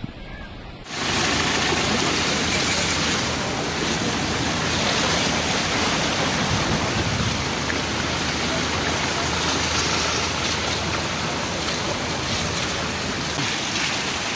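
Heavy floodwater and rain rushing as a loud, steady, even wash of noise, starting suddenly about a second in.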